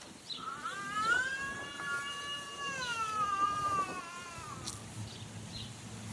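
A single long, high-pitched wavering cry of about three and a half seconds, rising at the start and sliding down at the end.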